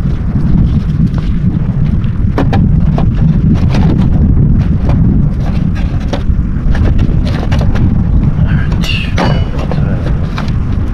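Wind buffeting the microphone as a steady low rumble, with scattered clicks and knocks of things being handled and a brief higher-pitched sound about nine seconds in.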